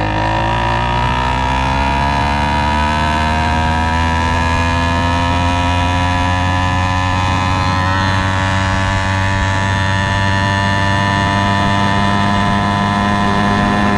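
80cc two-stroke motorized-bicycle engine running steadily, its pitch creeping slowly upward as the idle settles after starting.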